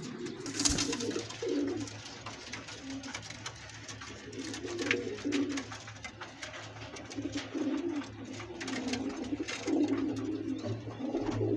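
Domestic pigeons cooing over and over, the coos overlapping, with scattered light clicks and rustles.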